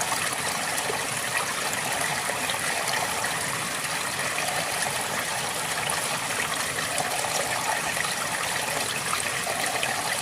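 River water flowing and splashing steadily, a constant rushing with small bright splashes and no breaks.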